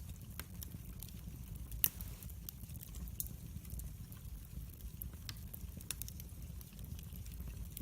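Wood fire crackling in a fireplace: irregular sharp pops and snaps over a low steady rumble, with one louder pop about two seconds in.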